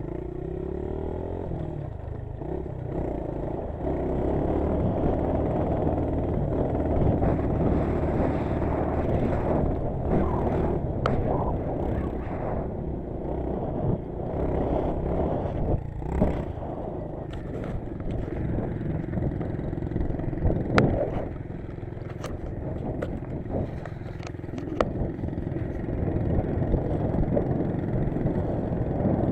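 Dirt bike ride heard on a GoPro: a steady, rough engine-and-rumble noise, with scattered sharp clicks and knocks in the second half.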